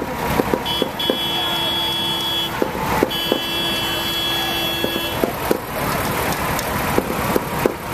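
A vehicle horn sounding two long blasts of about two seconds each, over steady outdoor street noise with scattered sharp clicks.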